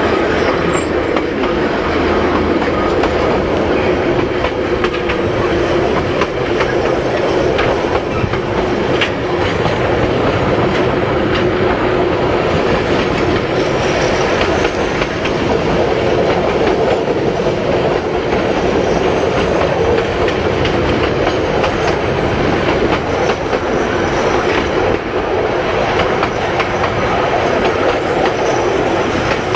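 Passenger train running along the track, heard from a carriage: a steady rumble of wheels on rail with scattered clicks.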